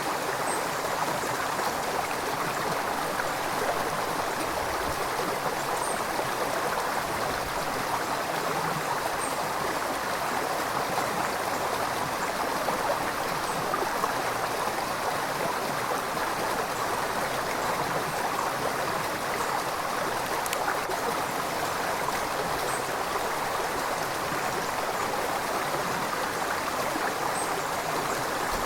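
River water rushing and gurgling over its bed, a steady, even flow.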